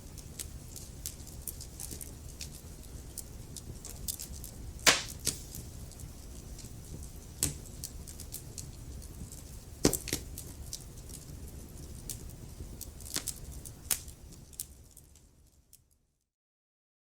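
Wood fire crackling: a steady low rumble of flames with frequent sharp snaps and a few loud pops. Near the end the sound fades out to complete silence.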